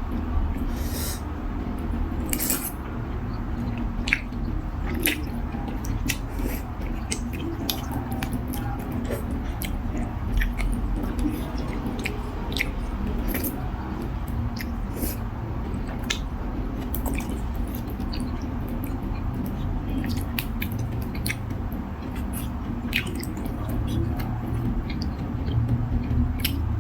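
A person eating beef noodle soup: chewing, with frequent short, sharp clicks of utensils against the bowl, over a steady low hum.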